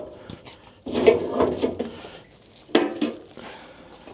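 Clatter of a fuel sample can and sampling jar being handled: short knocks and clinks in small clusters, one group about a second in and another near three seconds.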